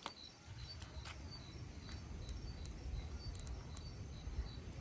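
Faint outdoor ambience of an insect chirping, a short high note repeating evenly about three times a second, with a few faint sharp clicks and a low rumble.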